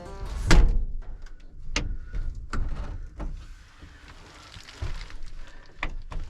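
Scattered knocks and clunks of things being handled in a pickup truck bed, with a heavy thump about half a second in.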